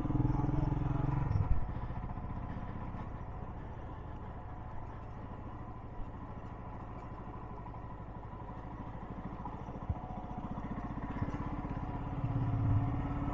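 Motorcycle engine running at low speed while riding. It is louder for the first second and a half, drops back to a quieter run, and picks up again near the end.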